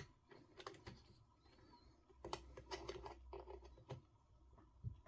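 Faint, scattered small clicks and taps of plastic turnbuckle rod ends being worked onto the steering ball studs of an RC car, the end not yet popping on.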